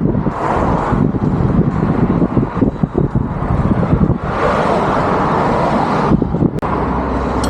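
Motor traffic on the road going by, with wind buffeting the microphone in an uneven, gusty rumble.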